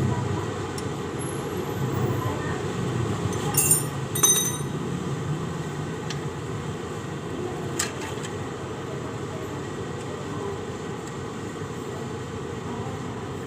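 Two short metallic clinks of hand tools against engine parts a little over three and a half and four seconds in, and a fainter click near eight seconds, over a steady low background rumble.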